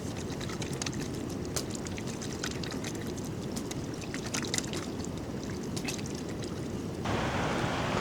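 Steady low rushing of water, with scattered light ticks. About seven seconds in, a brighter hiss joins it.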